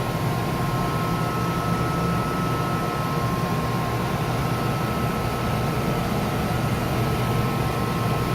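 Vacuum pump running steadily with an abnormal noise: a constant low drone with two steady high-pitched tones over it.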